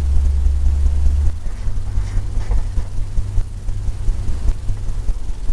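Steady low rumble that shifts slightly about one and a half seconds in.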